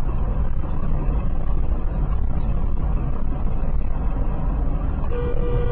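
Low, steady rumble of a vehicle on the road. About five seconds in, a horn begins to sound with one steady note.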